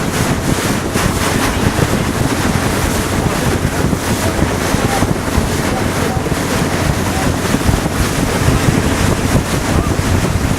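Wind buffeting the microphone on a moving motorboat, over the steady rush of water and engine noise.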